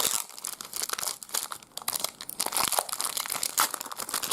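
A trading card pack wrapper being torn open and crinkled by hand, an irregular crackling rustle that runs on without a break.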